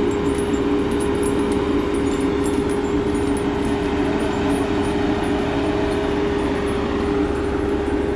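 Heavy diesel engine of a tracked logging machine running steadily at a constant drone as it is driven up a trailer's loading ramps.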